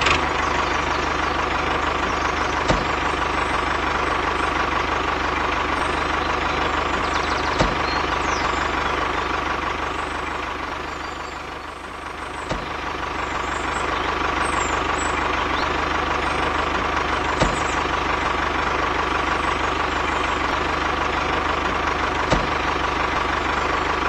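Diesel tractor engine running steadily at a low, even chug, with a faint click about every five seconds. The sound dips in level briefly about halfway through, then returns.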